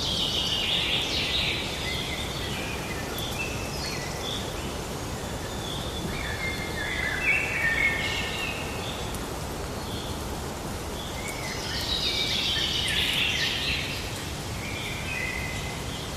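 Forest ambience: several birds calling and singing over a steady background hiss, the calls busiest at the start and again about twelve seconds in.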